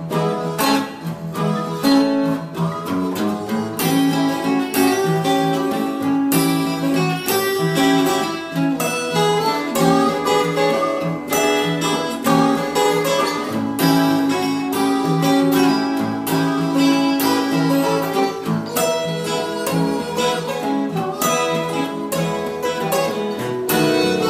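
Instrumental break of a blues song: guitars picking and strumming in a steady rhythm.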